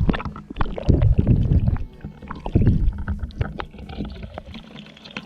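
Water splashing and gurgling over the camera as it is rinsed, right on the microphone, with small handling knocks; loudest in two surges in the first three seconds, then fading.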